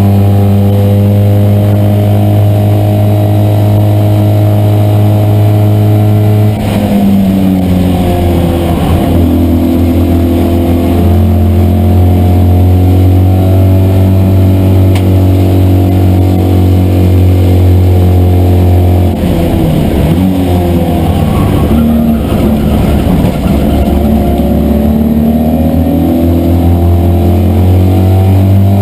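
Citroën 2CV race car's air-cooled flat-twin engine heard from inside the cabin, held at steady high revs. The note breaks up and drops twice, about a quarter of the way in and again about two-thirds of the way in, then climbs back up.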